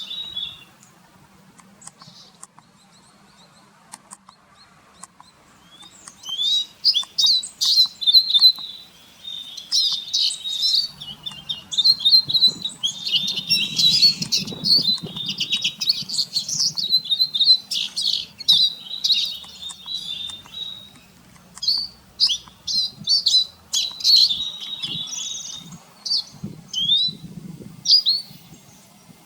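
A flock of Eurasian siskins twittering: a few faint chirps at first, then from about six seconds in a dense run of rapid high chirps and trills that keeps going.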